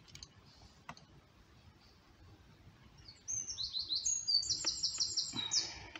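A songbird singing a fast run of short, high notes for about two and a half seconds, starting about three seconds in. A few faint clicks come before it.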